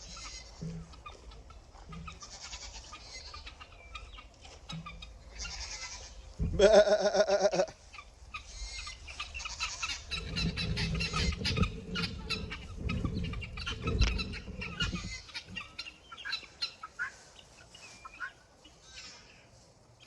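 A flock of domestic guinea fowl calling: many short, rapid, harsh calls, with one loud drawn-out call about seven seconds in.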